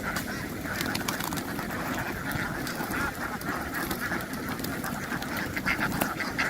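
A large flock of domestic ducks quacking continuously, many voices overlapping into a dense chatter.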